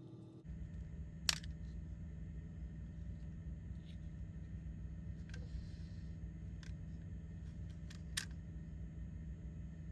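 Sharp, scattered clicks of hard plastic parts and tools being handled during the toy's disassembly, two of them loud (about a second in and near the end), over a steady low hum.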